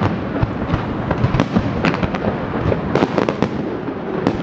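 Fireworks display: a dense, continuous run of bangs and crackles, many bursts a second over a steady rumble.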